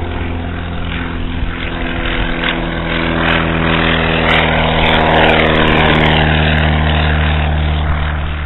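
Light propeller airplane's engine running at full power on its takeoff, growing louder as it passes, with a tone that falls in pitch as it goes by.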